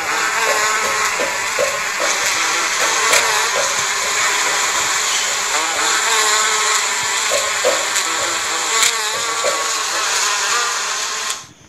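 Bees buzzing: a dense, steady hum of many bees, with single buzzes wavering up and down in pitch over it. It cuts off suddenly near the end.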